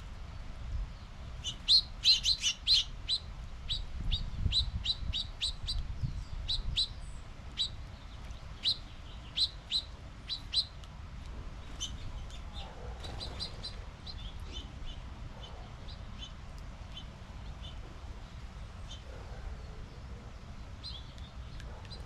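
Birds chirping: a quick run of short, high chirps that comes thick and fast for the first ten seconds or so, then thins out to scattered chirps.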